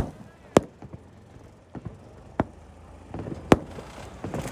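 A few separate sharp firework reports, spaced out over several seconds, with the loudest near the end.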